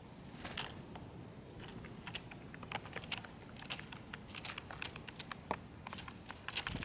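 Birds pecking and cracking sunflower seeds and peanuts at a feeder: quick, irregular dry taps and clicks, with a dull thump near the end.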